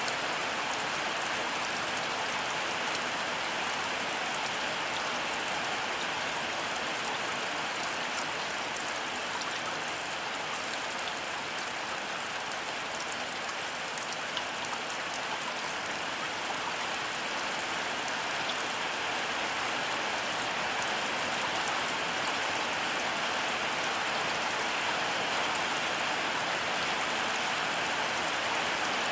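Heavy rain falling steadily: a dense, even hiss with fine ticks of individual drops.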